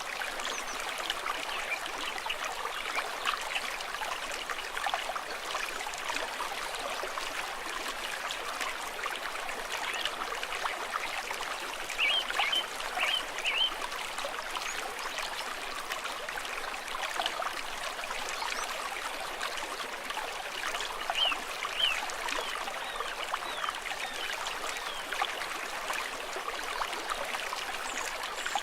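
A small stream trickling and babbling steadily, with a few brief high chirps about twelve seconds in and again a little after twenty seconds.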